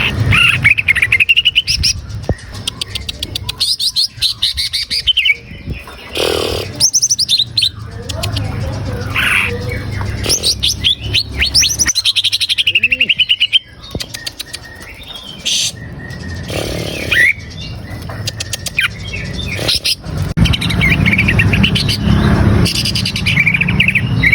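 Green leafbird (cucak ijo) singing a long, varied song: whistled notes that glide up and down, mixed with fast chattering runs and broken by short pauses. A steady low hum runs underneath.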